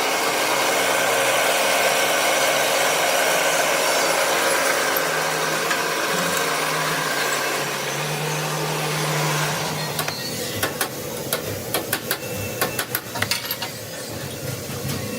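A power tool runs steadily with an even whirring noise and stops about ten seconds in. A string of sharp metal clicks and knocks follows.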